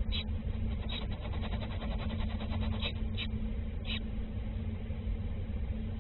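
Short high bird chirps, about five in the first four seconds, over a steady low engine-like hum.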